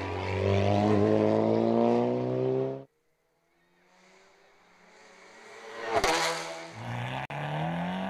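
Hill-climb race car engine accelerating hard, its pitch climbing, until it cuts off abruptly about three seconds in. Another race car then approaches, passes loudly about six seconds in and accelerates away, its engine pitch rising again.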